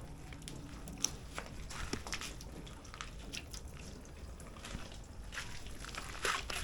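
Water being put on a car panel by hand during washing: scattered small splashes and drips over a faint low rumble.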